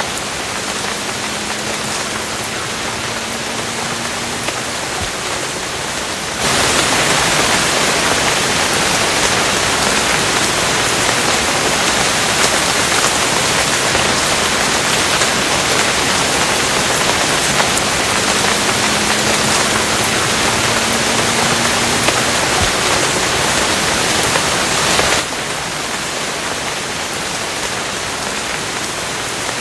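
Steady rain, an even hiss with no distinct drops standing out. About six seconds in it turns abruptly louder and brighter, as if heavier rain is laid on, and drops back just as suddenly near the end.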